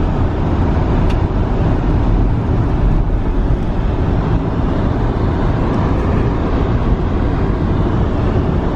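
Ford Expedition SUV driving on plowed roads: a steady low rumble of engine and tyre noise heard from inside the cabin.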